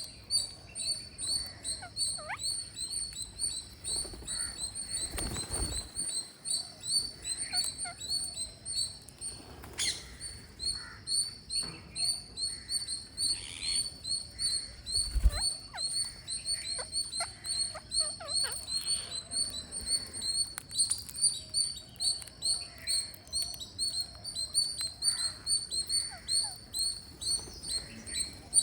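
Green parrots chirping while they feed: a fast, steady run of high chirps throughout, with scattered short downward-sliding calls, and a couple of low thumps.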